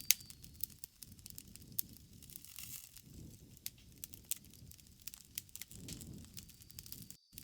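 Bonfire crackling: irregular sharp pops and snaps of burning wood over a low, steady rumble of flames, with a brief gap near the end.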